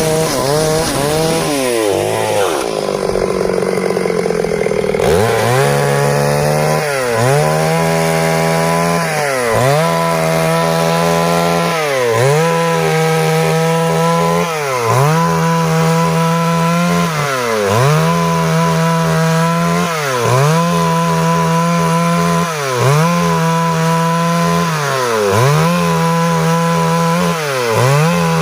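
Stihl MS 382 two-stroke chainsaw cutting wood at high revs. Its pitch sags and climbs back over a few seconds near the start, then dips briefly and recovers about every two and a half seconds.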